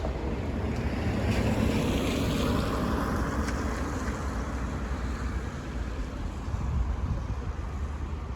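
A vehicle passing close by, its noise swelling over the first few seconds and then fading, with wind on the microphone.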